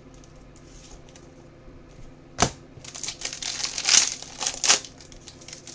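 A sharp click about two seconds in, then a burst of plastic crinkling and clatter as trading cards and their packaging are handled.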